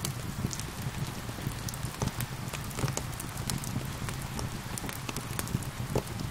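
Steady rain mixed with a crackling fire: an even patter of rain under frequent irregular sharp pops and crackles, over a low rumble.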